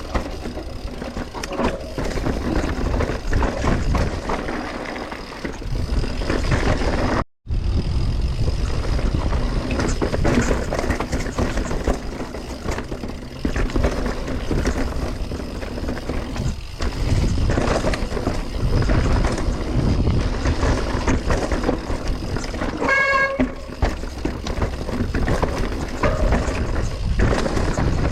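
Mountain bike descending a rough dirt trail: wind buffeting the helmet or bike-mounted microphone over constant tyre rumble and the rattle of the bike over roots and rocks, cut off briefly a few seconds in. A short, high squeal sounds once near the end.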